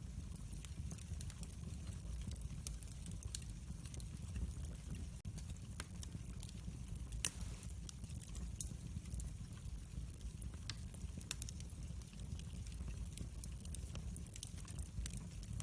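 Wood fire burning: a steady low rumble of flames with scattered crackles and small pops, and one louder pop about seven seconds in.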